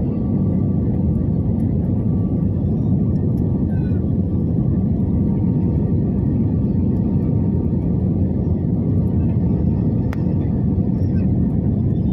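Steady low roar of a Batik Air jet airliner's engines as it lands, with a faint steady whine above it.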